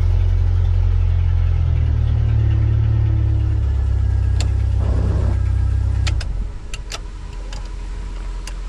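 1998 Jeep Wrangler engine running steadily just after starting, with the repaired ignition now turning it over. The low drone drops off sharply about six seconds in, and a few light clicks follow near the end.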